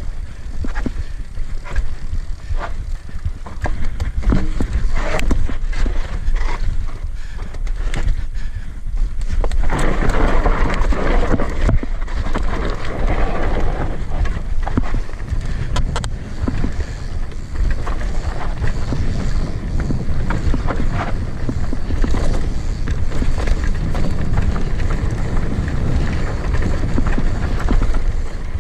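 Steady low rumble of wind buffeting a handheld microphone, with scattered knocks from handling. A louder rushing noise swells about ten seconds in and eases off a few seconds later.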